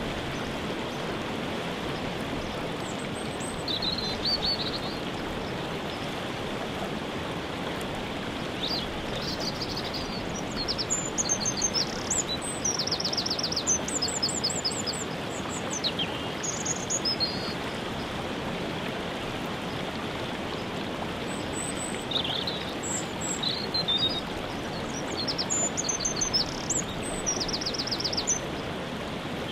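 Steady rush of a waterfall, with small songbirds chirping and trilling over it in bouts, busiest around the middle and again near the end.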